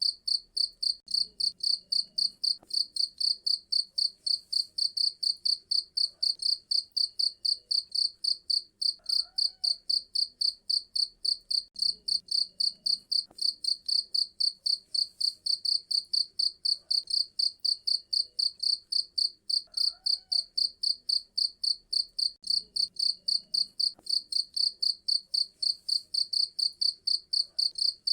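A cricket chirping steadily, an even train of short high-pitched chirps at about three a second.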